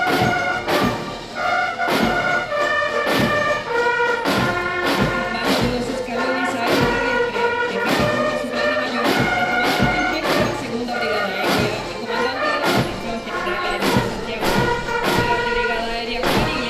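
Military brass band playing a march, brass melody over a steady bass drum beat.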